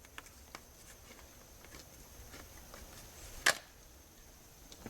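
Quiet handling of a plastic motor-oil bottle being opened: a few faint clicks and one sharp click about three and a half seconds in.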